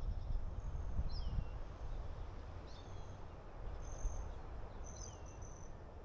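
Songbird calls repeating every second or so, several of them a short high note that drops in pitch, with a few brief steady high notes later, over a steady low outdoor rumble.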